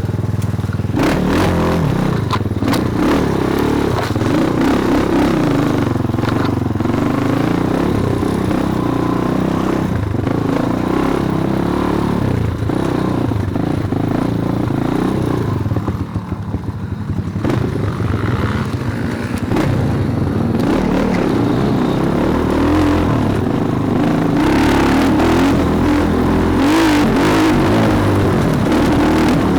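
Small single-cylinder pit bike engine running and being revved as the bike is ridden, with a brief drop in level about halfway through.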